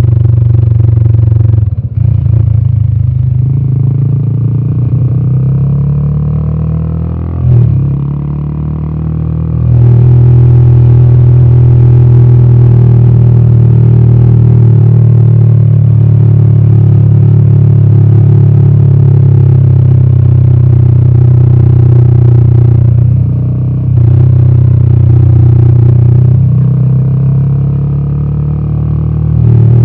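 Royal Enfield Himalayan 450's single-cylinder 450cc Sherpa engine running through its exhaust under way. It eases off for several seconds with the pitch sliding, comes back on the throttle about ten seconds in and pulls steadily, then dips briefly, as in a gear change, a little past twenty seconds.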